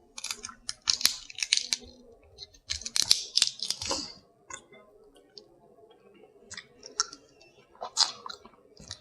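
Close-up eating of Maryland crab: crunching and picking at the shell, with chewing. The clusters of crackly clicks are densest in the first four seconds, then thin out to scattered clicks, with another short burst near the end.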